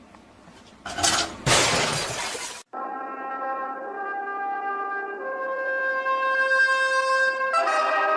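Two loud crashes, like something smashing, about a second in, followed by a held brass chord of music that changes notes and swells near the end.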